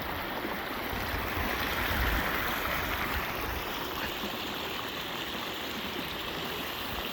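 Storm rainwater runoff flowing across and eroding a road, a steady rush of running water with no breaks.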